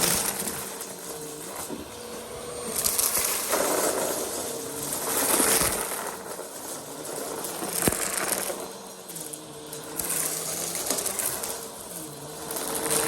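Upright vacuum cleaner running with a steady motor hum, pushed quickly back and forth over the floor, its rush of air swelling and fading with each stroke about every two and a half seconds.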